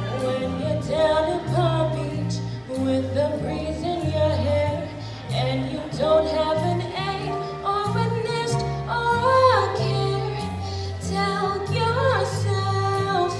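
A female voice singing a show tune, with sliding pitch swoops, over instrumental accompaniment with a bass line that steps from note to note.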